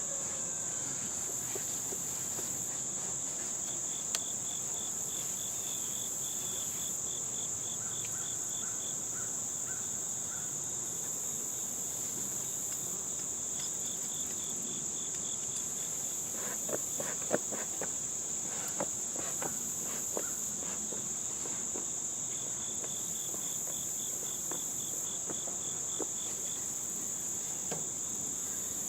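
Steady high-pitched insect chorus, with a lower pulsing trill that comes and goes three times. A few light clicks and knocks sound around the middle.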